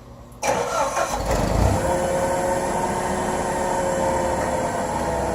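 Forklift engine starting about half a second in, then running steadily.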